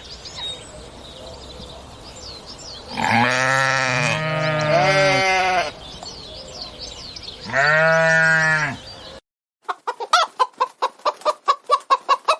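Livestock bleating: several overlapping bleats about three seconds in, then one long bleat near eight seconds, over faint bird chirps. After an abrupt cut near the end, a chicken clucks in a quick, even series.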